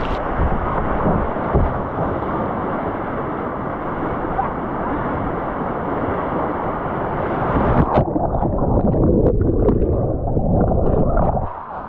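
Loud rushing whitewater noise with wind buffeting the microphone. About eight seconds in it turns duller and rougher, and it cuts off sharply near the end.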